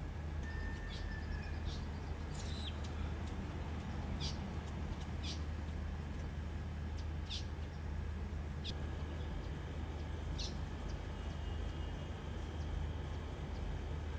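Birds giving short, high chirps, spaced about a second or two apart, over a steady low hum.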